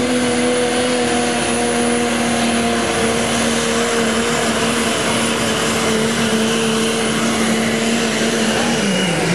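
An unlimited-class diesel pulling tractor's engine at full throttle, held at a steady high pitch with a thin high whine above it. Near the end the revs drop.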